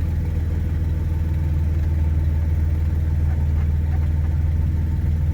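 A 1992 Dodge D150 pickup's engine idling steadily, heard from inside the cab as a low, even rumble.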